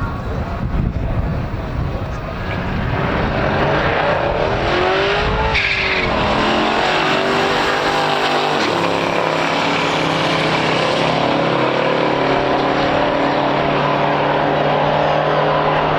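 A drag-racing car's engine accelerating hard: its pitch climbs, breaks and drops at an upshift about six seconds in, climbs again, shifts again about nine seconds in, then holds a steady high pitch.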